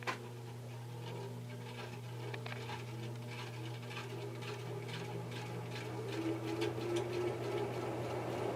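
Antique Century ceiling fan's shaded-pole motor humming steadily as the fan comes up to speed on high, the rush of air from the blades slowly growing louder. A sharp click at the very start.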